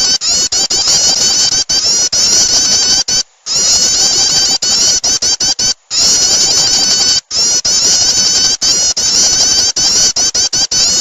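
Recorded prinia calls used as a bird lure: loud, dense, high-pitched chirping and rapid repeated notes from several overlapping calls. The sound cuts out abruptly for a moment a few times, where the recording is spliced.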